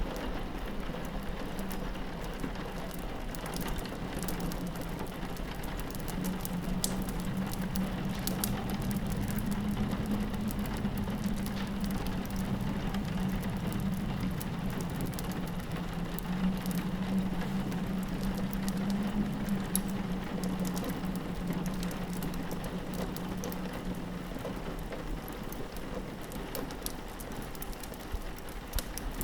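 Steady rain hitting a window, with a fireplace crackling in scattered sharp pops and a low wind howl that swells twice.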